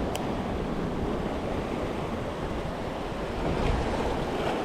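Ocean surf washing against the shoreline, a steady rush of waves, with wind noise on the microphone.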